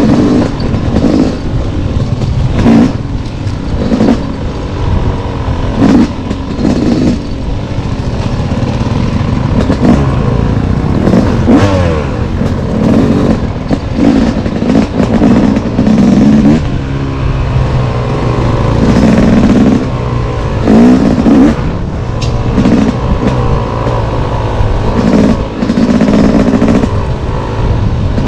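Dirt bike engine revving up and falling back over and over as it is ridden along a trail, with rumbling wind noise and intermittent clatter.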